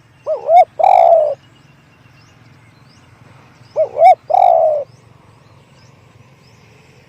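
Spotted dove cooing twice close up, each call two short quick notes followed by one longer, drawn-out note. Faint chirps of other small birds sound in the background.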